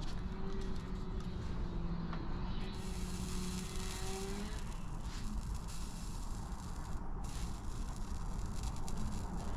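Steady low rumble with a faint engine-like hum whose pitch rises slowly over the first few seconds.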